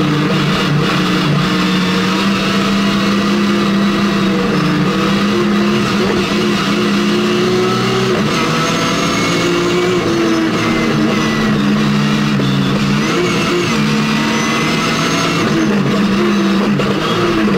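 BMW E30 rally car's S50 straight-six engine, heard from inside the cabin and driven hard: the revs climb, drop, and climb again over and over as it accelerates, lifts for corners and changes gear.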